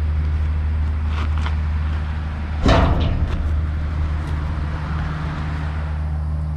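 Kenworth T800's diesel engine idling steadily, with a few light metal clicks and one loud metal clank a little before the middle as the Beau-Roc dump body's tailgate latch handle and safety lock are worked.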